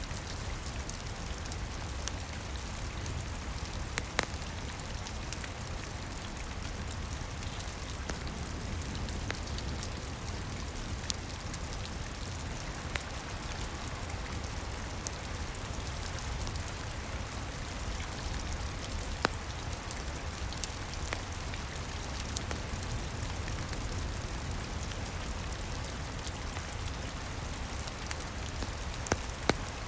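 Steady rain with a few scattered sharp pops from a crackling wood fire.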